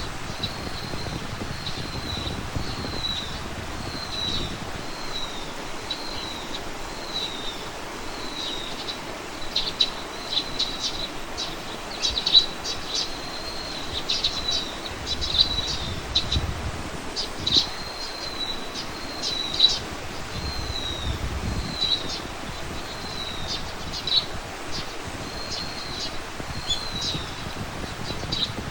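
A small bird calling a short, high, falling note over and over, about once every second, mixed from about nine seconds in with sharp, quick chips. Low wind rumble swells now and then.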